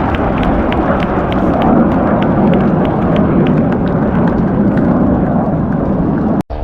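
Loud, steady roar of jet aircraft engines, cut off abruptly by an edit near the end.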